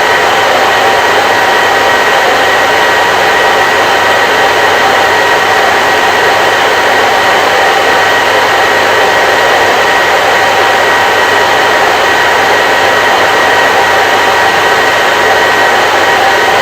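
Electric hair dryer running continuously on a steady setting: a loud, even rush of air with a faint motor whine, unchanging throughout.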